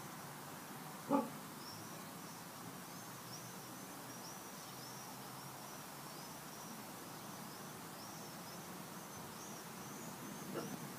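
Quiet outdoor background with a bird's high, repeated chirping, and one short dog bark about a second in, the loudest sound.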